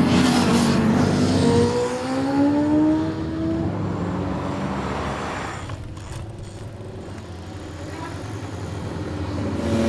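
Electric bicycle's hub motor whining, its pitch rising as it accelerates away and fades; near the end a rising whine comes up loud again as a bike approaches.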